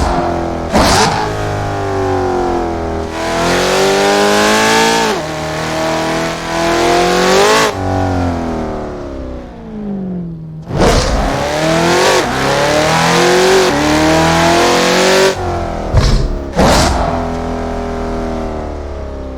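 Car engine driven hard: it revs up through the gears with short breaks between the rising runs, drops in pitch as the car slows from about eight seconds to ten and a half, then pulls up through the gears again.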